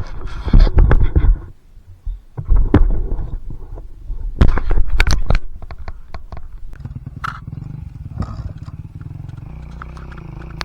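Dirt bike engine revving in loud, choppy bursts with knocks and wind buffeting on the microphone, then running steadily at a lower, even pitch from about seven seconds in.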